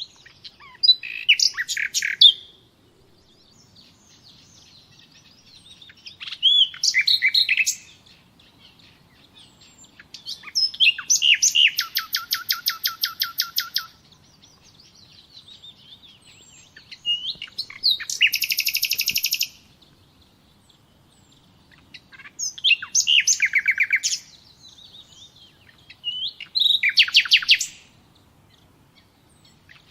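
A songbird singing six loud, high-pitched song phrases, about one every four seconds, several built on a fast, even trill. Fainter bird chirps between the phrases.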